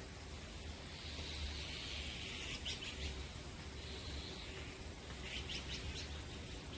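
Small birds chirping in short, quick clusters over a steady background hiss and low rumble.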